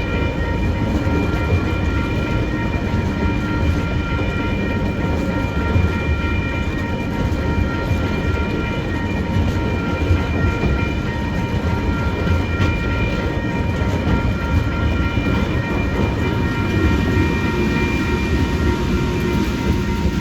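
TasRail cement freight train rolling past, its wagons rumbling steadily on the rails. A steady high whine holds throughout.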